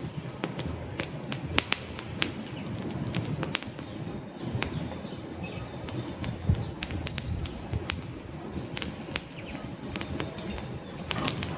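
Wood campfire burning: flames fluttering with a steady low rush, and logs crackling and popping in irregular sharp snaps, several a second.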